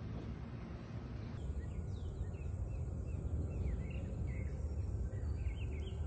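Steady low rumbling noise throughout. From about a second and a half in, small birds chirp with many short, quick downward chirps.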